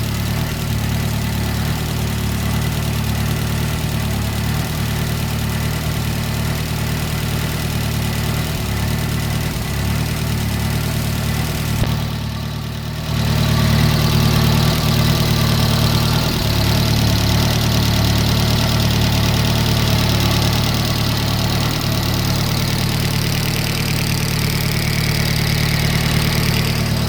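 Cosworth engine idling steadily with the tappet noise from its valve train. The sound goes briefly muffled about twelve seconds in, then comes back louder.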